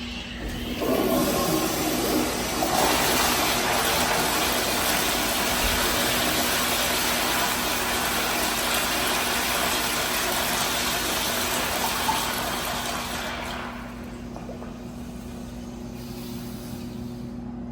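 American Standard Priolo rear-outlet toilet flushing: a loud rush of water that starts with a gurgle, runs steadily for about thirteen seconds, then tapers off.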